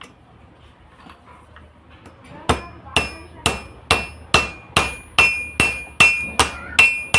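Hammer striking metal while fitting the shaft bush of an exhaust fan motor. After a couple of quiet seconds come about a dozen evenly spaced blows, roughly two and a half a second, each with a brief metallic ring.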